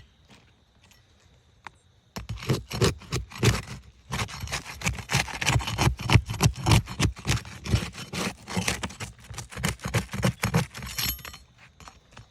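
Shingle repair work: a tool scraping and scratching against asphalt roof shingles in quick, dense strokes. It starts about two seconds in and stops about a second before the end.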